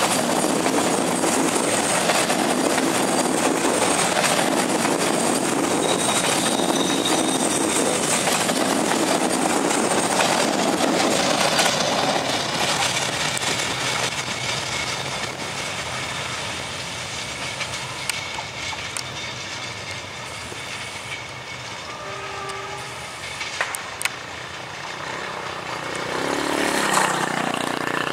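Passenger train coaches rolling past close by, their wheels on the rails making a loud, steady rumble that fades away over the middle as the train recedes. Near the end the sound builds up again as another train approaches.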